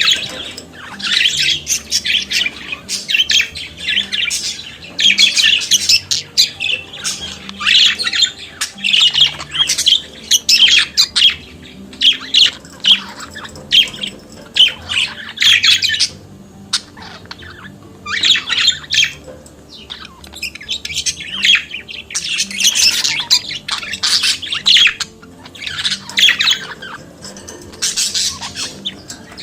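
Budgerigars warbling and chattering: rapid, fast-changing chirps and squawks coming in bursts with short pauses.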